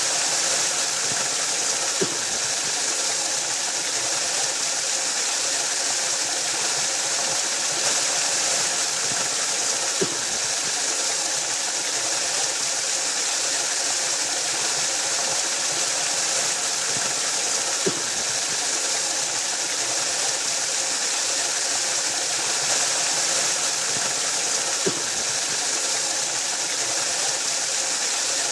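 Waterfall rushing in a steady, unbroken hiss, with a faint click about every eight seconds.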